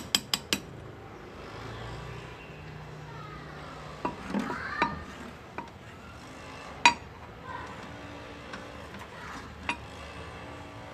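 Hand engraving: rapid, even taps of a hammer on a graver, about seven a second, stop about half a second in. After that come a few scattered metal clinks of tools handled on the bench, the sharpest about seven seconds in.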